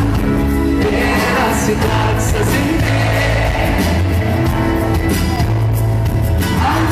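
Live band playing a pop song, loud and steady with a heavy bass, with singing over it.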